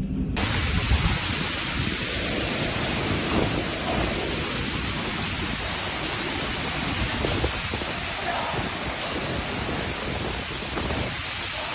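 Typhoon wind and heavy rain, a dense steady rushing hiss that cuts in abruptly just after the start.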